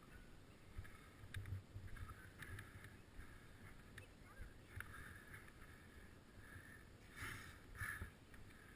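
Faint wind rumble on the camera microphone while cycling, with a few light clicks and two brief louder rustles near the end.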